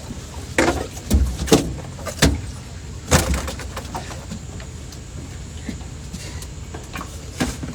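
Several sudden thumps and knocks in a boat as a freshly caught catfish is landed and handled, most of them in the first three seconds and one more near the end, over a steady low rumble.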